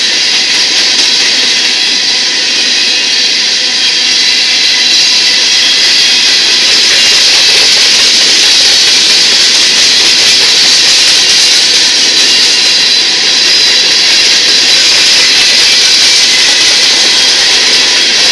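Empty covered hopper cars of a freight train rolling past close by: steel wheels on the rails make a steady, loud, mostly high-pitched rolling noise.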